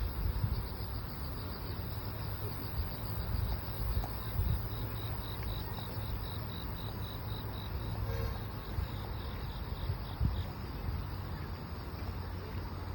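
Grass insects such as crickets chirping in a steady high pulsed series that fades out about ten seconds in, over a constant low rumble.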